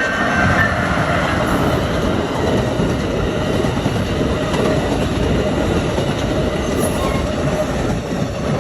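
Amtrak passenger train passing close by at a crossing: a loud, steady rumble and rail noise from the wheels and cars. The tail of its horn dies away in the first second.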